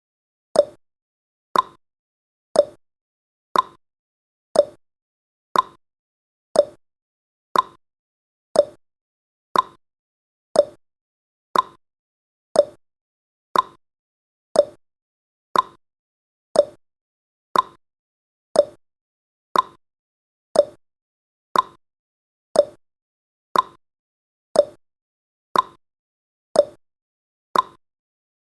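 Countdown timer's clock-tick sound effect: short sharp ticks, one every second, alternating slightly in pitch like a tick-tock.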